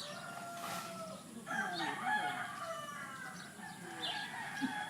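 Roosters crowing, several long calls overlapping one another.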